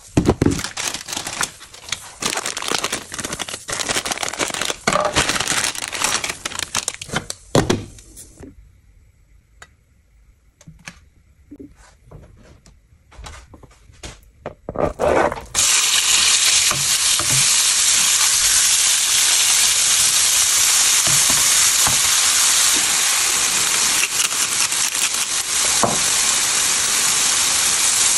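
First, rustling and knocking of kitchen handling. About halfway through, sliced raw chicken hits hot oil in a frying pan, and a loud, steady sizzle sets in and keeps going.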